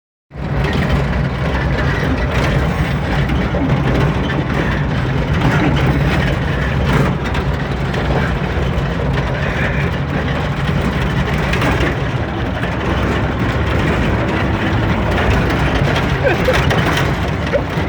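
Dodge truck's engine running steadily.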